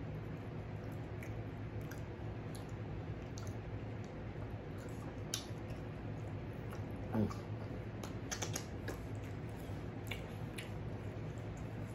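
Close-up chewing of tender steak: scattered soft mouth clicks and smacks, with a brief vocal sound about seven seconds in, over a steady low hum.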